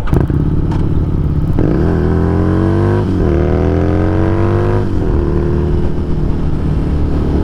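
Harley-Davidson Street Rod 750's V-twin engine catching again after coasting with the engine off, then accelerating through two gears: the pitch rises twice, then settles into a steady run.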